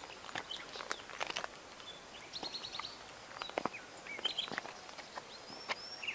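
Footsteps on rough ground, heard as scattered clicks and rustles, with small birds calling: a quick run of high chirps about two and a half seconds in, more chirps a second later, and a high whistled note near the end.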